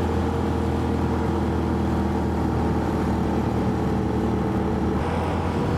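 Motorcycle engine running at a steady cruising speed under way, with wind and road rush over it. Near the end the steady engine note changes.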